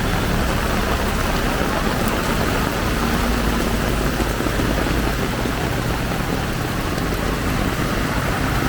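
Heavy rain falling steadily, with the low hum of a motor vehicle's engine running underneath.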